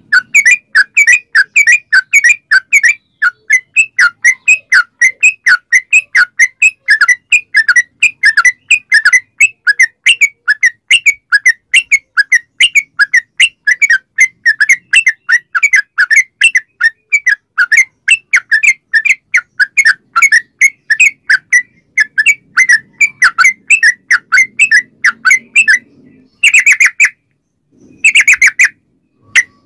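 Yellow-vented bulbul (trucukan) singing a long, rapid, unbroken string of chirping notes, about three to four a second. Near the end it breaks off, then gives two short bursts.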